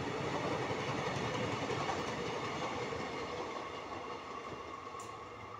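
Passenger express coaches running through at speed, their wheels rolling over the rails. The sound fades over the last couple of seconds as the end of the train passes and draws away.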